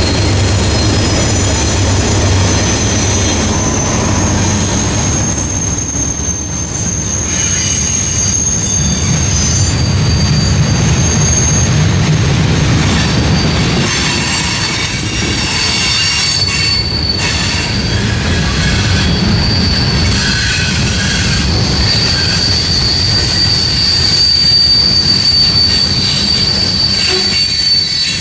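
Norfolk Southern freight train rolling past close by. Its diesel locomotives rumble by at the start, then freight cars follow with a steady rolling noise and a thin, high-pitched wheel squeal that holds through the second half.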